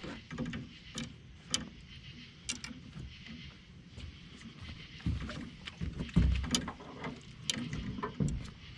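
Scattered knocks and clicks of fishing gear being handled in a small boat, with two low thumps against the hull about five and six seconds in.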